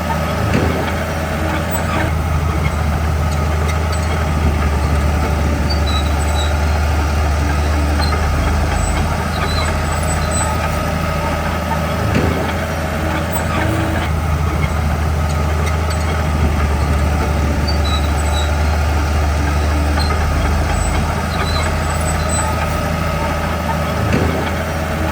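Komatsu D41P crawler bulldozer's diesel engine running steadily with a deep drone, with a few short clanks about every ten seconds.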